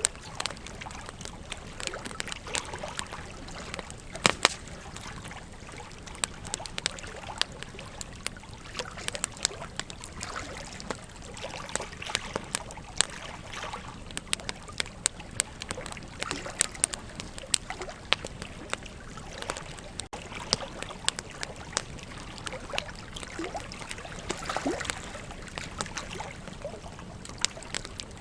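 Wood campfire crackling, with irregular sharp pops, over the steady rush of a flowing river.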